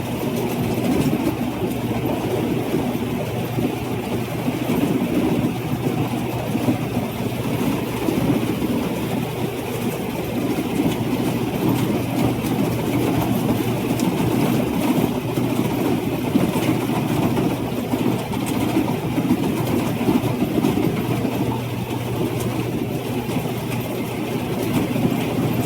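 Rice combine harvester's diesel engine running steadily, a constant drone with a steady low hum.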